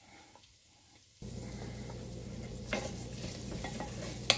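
Onions, garlic and pork sausage sizzling in a pot on the stovetop, starting abruptly about a second in, with a few sharp clicks of a utensil against the pot.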